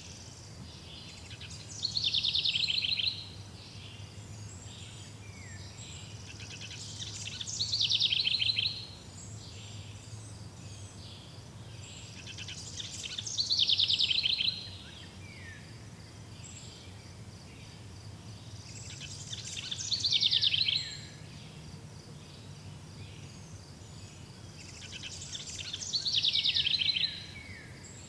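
A songbird singing the same short song five times, about every six seconds. Each song is a quick run of high notes that swells into a loud rapid trill and ends in a few falling notes. A faint steady high background hiss runs underneath.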